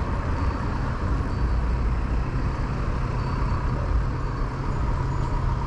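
City street traffic: a steady rumble of engines and tyres from passing cars and heavier vehicles.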